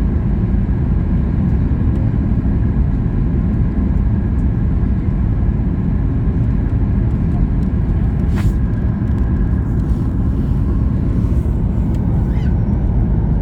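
Steady low rumble of a passenger airliner heard from inside the cabin, with a brief click about eight seconds in.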